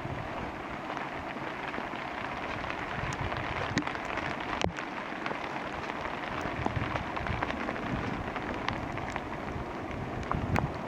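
Steady rain, with single drops striking close by as sharp ticks scattered throughout; the sharpest tick comes a little under halfway.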